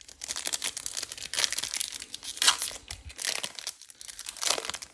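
Foil wrapper of a trading card pack crinkling and tearing as it is opened by hand, a dense crackly rustle with a louder rip about halfway through.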